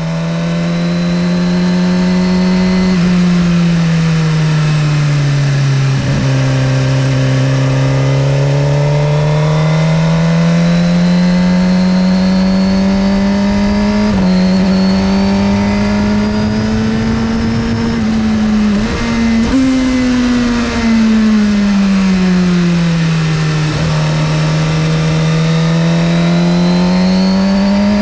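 2017 Suzuki GSX-R1000R's inline-four engine pulling through the revs, its pitch rising and falling with the throttle as it rides through bends. Several gear changes show as sudden steps in pitch.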